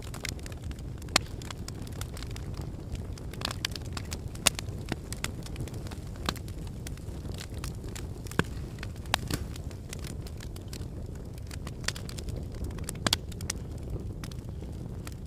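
Wood logs burning in a fireplace: irregular sharp crackles and pops over a steady low rumble of the flames, with a few louder pops scattered through.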